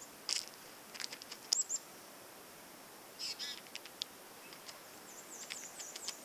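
Bird chirps and short calls a second or two apart, including one call about three seconds in and a quick run of high chirps near the end, with a few brief sharp clicks, over faint steady outdoor hiss.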